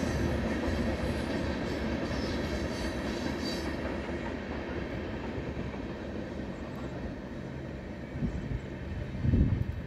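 Freight train cars rolling past on the rails: a steady rumble with clickety-clack that slowly grows quieter, with faint wheel squeal in the first few seconds. A louder low thump comes about nine seconds in.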